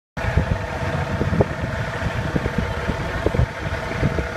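Farm tractor engine running steadily at idle, with an uneven low rumble under a constant hum.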